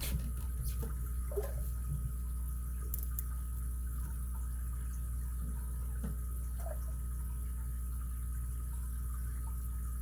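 Steady low hum with a few faint, scattered ticks and scrapes: a lock pick and tension wrench working the pins inside an ABUS 83CS 55 padlock.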